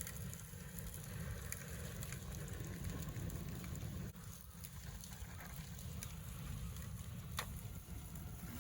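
Bonfire of freshly cut bamboo burning: a steady hiss and crackle with a few sharp pops, the clearest one near the end. The bamboo is damp from rain, and its moisture escapes as hissing steam.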